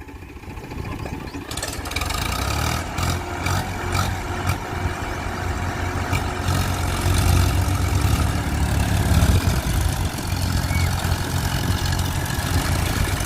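Diesel tractor engine running with a steady low drone. It grows louder over the first couple of seconds and is heaviest about midway through.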